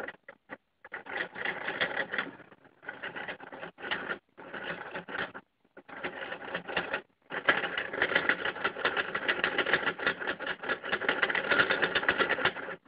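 Lego two-piston engine model clattering as its pistons cycle fast. There are several short runs of about a second each, then a longer run of about five seconds that stops abruptly near the end.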